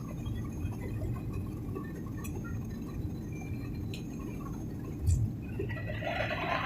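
Steady low drone of an airliner cabin in flight, engines and airflow, during bad weather. A thump comes about five seconds in, and a louder hissy, rustling noise rises near the end.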